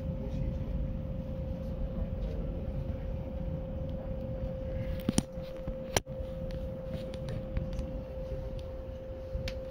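Keio 8000 series electric train running at steady speed, heard on board: a low rumble of wheels on rail with a steady, even-pitched hum over it. A few sharp clicks come around the middle.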